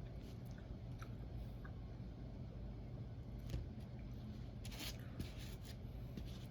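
Close-miked eating of pancakes: soft chewing and small mouth clicks, with a few short scraping, rustling sounds about five seconds in.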